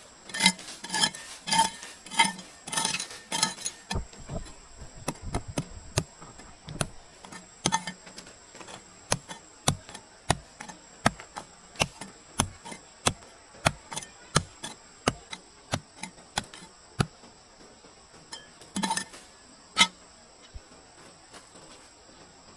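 Repeated sharp knocks and metallic clinks. For the first few seconds there are about two ringing strikes a second, then quicker, drier clicks and taps, then two more ringing strikes near the end.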